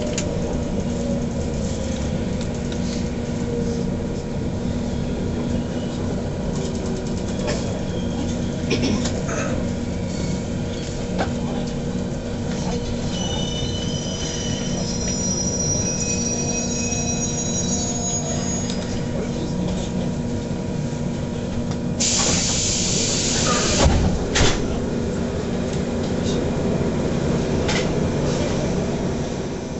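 JR Central 117 series electric train, heard from inside the carriage, running slowly into a station and stopping, over a steady hum. About halfway through the wheels and brakes squeal in high thin tones, and about two-thirds of the way in a short loud hiss of air is followed by two knocks.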